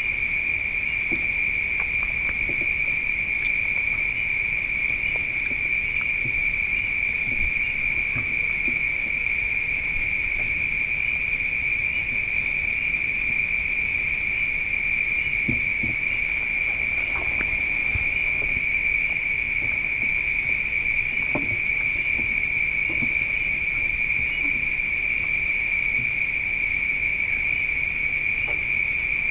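Night chorus of crickets, a steady, unbroken high-pitched trilling.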